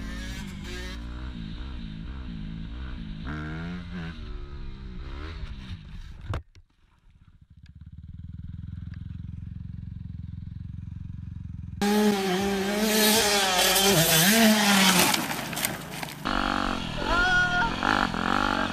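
Dirt bike engines revving, the pitch rising and falling with the throttle. The sound cuts out about six seconds in, a steady low drone follows, and a louder stretch of revving starts near the middle.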